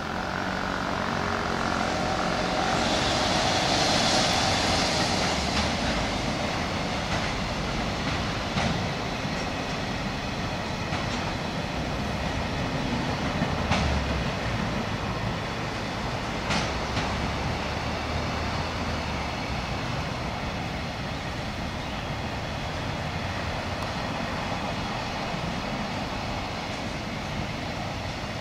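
Freight train of container wagons rolling past on elevated track: a steady rumble of wheels on rail, loudest about four seconds in, with a few sharp clacks as wheels cross rail joints.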